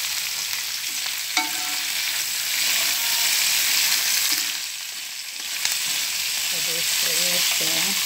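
Crab pieces sizzling in a pot with butter, garlic, onion and curry leaves, a steady frying hiss, while a wooden spatula stirs and turns them with scrapes and a sharp knock about a second and a half in. The sizzle dips briefly about five seconds in.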